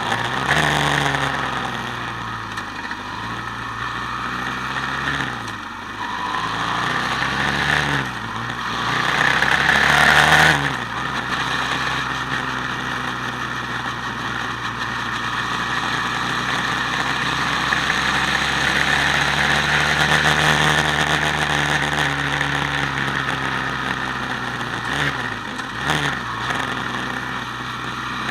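Quad bike engine running under way, its pitch rising and falling with throttle changes several times, with brief revs near 10 seconds and again near the end.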